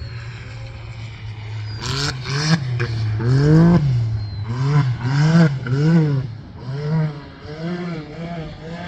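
Jeep Wrangler JK engine revving up and down in repeated throttle blips, about once a second, while crawling over an off-road obstacle, after a few seconds of steady idle. Rough bursts of scraping noise come in with the first few revs.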